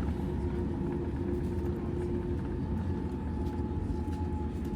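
Steady cabin noise inside a Boeing 787-9 airliner: a low rumble with two steady hums over it, one lower and one higher.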